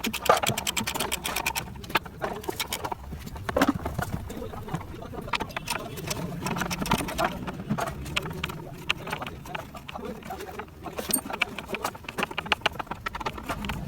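Hand tools clicking and clinking against engine metal, with quick runs of rapid clicks like a ratchet wrench turning.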